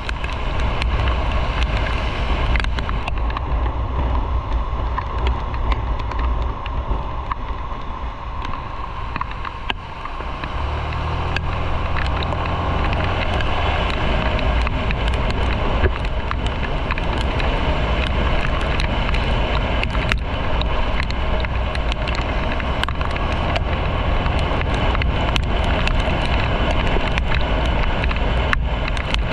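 Motorcycle engine running under way, mixed with wind rush. About ten seconds in, the engine's note comes up stronger and holds steady.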